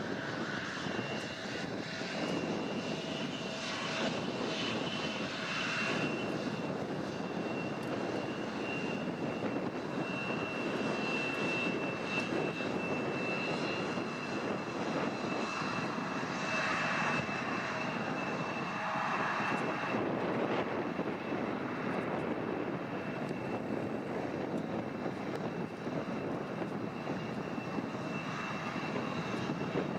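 Airliner engines running steadily: a broad rumble with a thin, high whine held over it.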